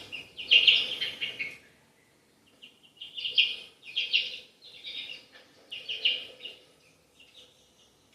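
A group of young chicks, about three weeks old, chirping in bursts of quick high peeps, with short pauses between the bursts.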